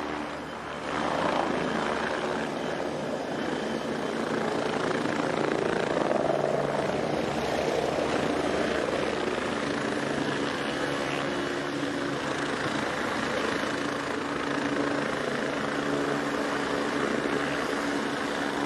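Aircraft engine running steadily: an even drone with a low hum, dipping briefly about a second in.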